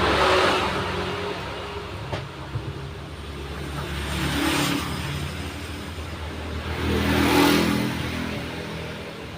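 Road traffic: vehicles pass by one after another, three times, each rising and fading over a couple of seconds.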